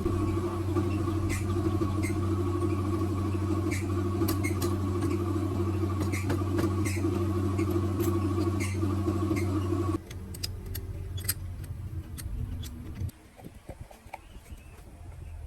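A machine running with a steady hum, overlaid by scattered sharp clicks, that cuts off suddenly about two thirds of the way in; light clicks and clinks follow.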